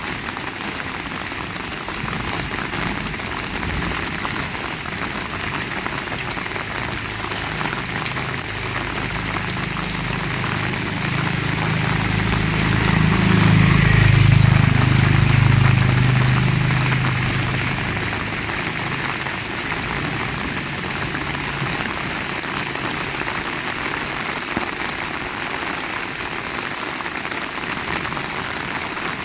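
Heavy rain falling steadily. A vehicle engine's low hum swells in from about a quarter of the way in, is loudest near the middle, and fades out as it passes by.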